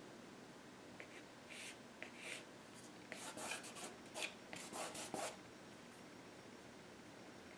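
Faint swishing strokes of a paintbrush laying acrylic paint onto the painting, several short strokes clustered around the middle.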